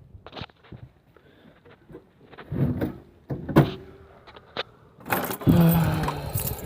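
Keys jangling and being handled, with small knocks and rustles, a louder rustle of handling about five seconds in.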